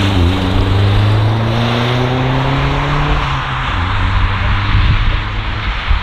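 A car engine accelerating past: its pitch dips briefly at the start, then climbs steadily for about three seconds before dropping back into a rougher mixed engine and road noise.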